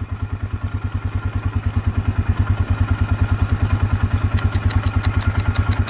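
Quad bike engine idling with a steady, fast pulse. Near the end, a quick run of light, evenly spaced high ticks comes in over it.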